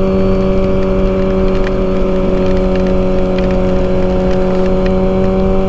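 Kawasaki ZX-6R's 636 cc inline-four engine running at a steady pitch while cruising at constant speed, with wind and road rumble underneath.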